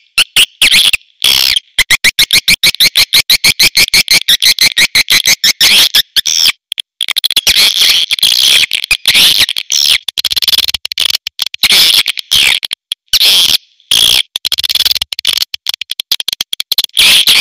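Swiftlets calling: a fast, even run of clicks at about ten a second, then dense high twittering chatter broken by brief pauses. This is a swiftlet lure call, the kind played to draw swiftlets to a nesting house.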